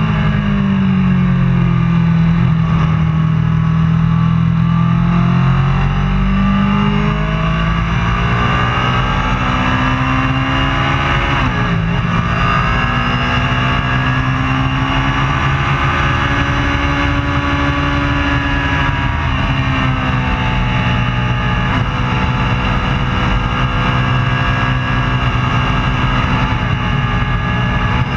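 Racing superbike engine held at high revs, its pitch sinking and climbing slowly through acceleration and braking, with a quick sharp dip in pitch about twelve seconds in.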